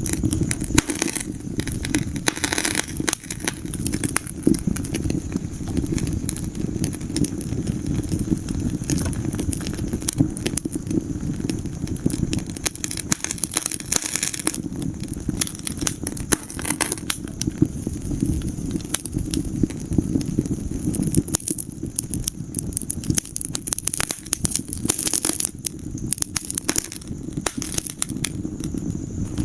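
Fire burning in a fireplace, with dense irregular crackles and pops over a steady low rumble.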